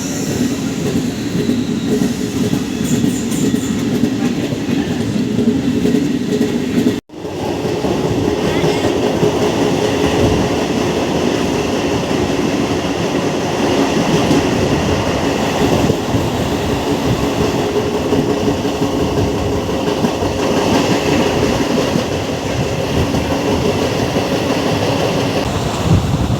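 MEMU electric train running, heard from on board: a steady rumble of wheels on rail with clickety-clack over the rail joints. A brief break in the sound comes about seven seconds in.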